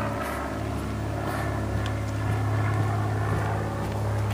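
Chrysler PT Cruiser's four-cylinder engine running steadily as the car creeps along at walking pace, heard close behind the tailpipe as a steady low drone.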